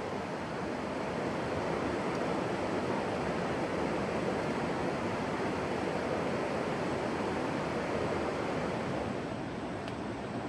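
A steady rushing noise, slightly louder in the middle and easing a little near the end.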